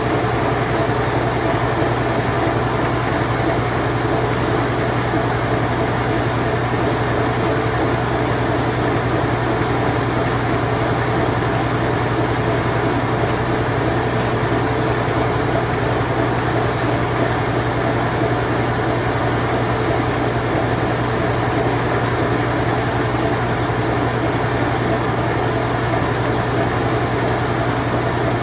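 Late-1980s Whirlpool Imperial Clean Touch washing machine running its spin cycle: a steady, unchanging hum with a constant rushing noise.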